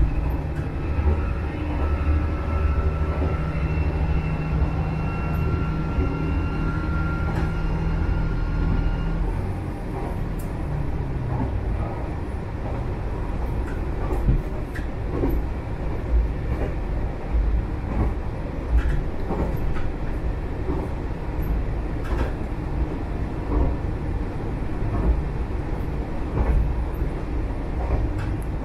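Diesel railcar running along the line, heard from on board. The engine's steady drone and whine runs for about nine seconds, then drops away, leaving the rumble of wheels on rail broken by scattered clicks over the rail joints.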